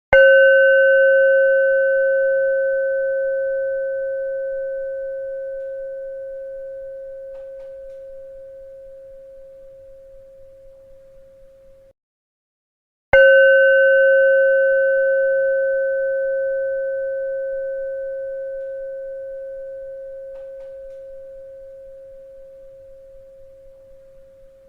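A bell struck twice, about thirteen seconds apart. Each strike rings with one steady mid-pitched tone plus fainter higher overtones, fades slowly over about twelve seconds, then cuts off abruptly before the next strike.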